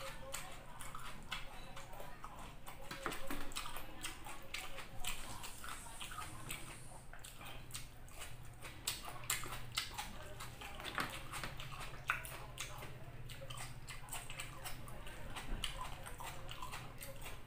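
Close-up chewing and biting of chicken drumstick and rice eaten by hand, with many irregular wet mouth clicks and smacks.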